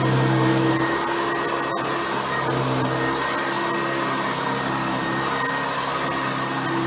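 Hoover Convertible U4349 upright vacuum cleaner running steadily, its motor hum wavering a little in pitch.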